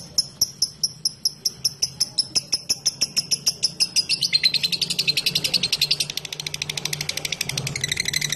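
Lovebird calling: a run of short, evenly spaced high chirps that speeds up, then about four seconds in breaks into a fast continuous chattering trill, the long 'ngekek' chatter that lovebird keepers prize.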